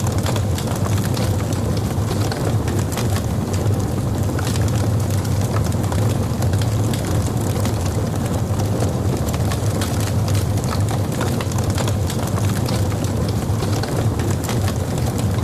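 Logs burning in a fireplace: a steady low rumble of flames with many small crackles and pops scattered throughout.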